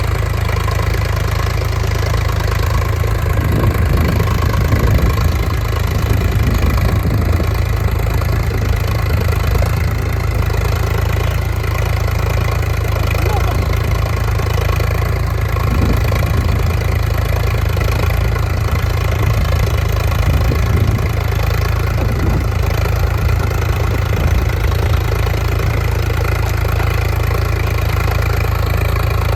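Tractor's diesel engine running steadily, a constant low engine note with no change in speed.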